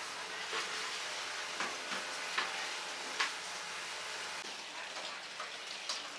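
Chicken sizzling over a charcoal grill, a steady hiss, with a few sharp clicks and knocks scattered through it.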